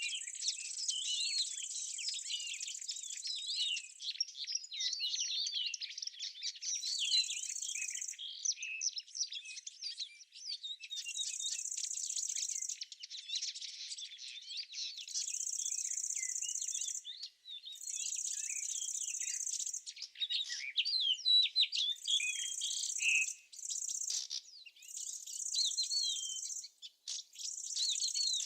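Small birds chirping and twittering continually, with an insect's high, steady buzzing trill that comes in bouts of one to two seconds separated by short pauses.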